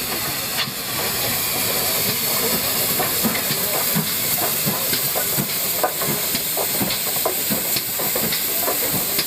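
Steam locomotive hissing steam steadily, with scattered light clanks and knocks throughout.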